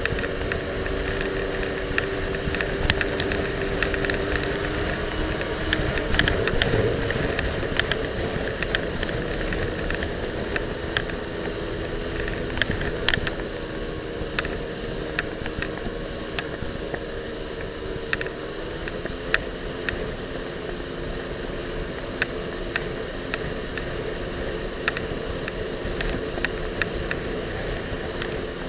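Jet ski engine running steadily, its note shifting in pitch a couple of times, under wind and water noise. Frequent sharp clicks and knocks come from the loosely attached camera rattling.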